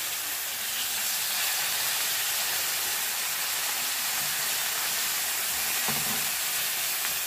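Flour-dredged chicken thighs sizzling steadily in a frying pan while being turned over with tongs.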